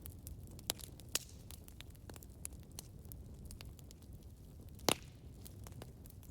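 Campfire burning: a steady low rumble of flames with irregular sharp crackles and pops of burning wood, the loudest pop just before five seconds in.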